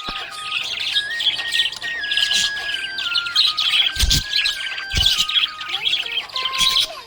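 Budgie chirping and warbling in a rapid, continuous chatter, with two dull thumps about four and five seconds in.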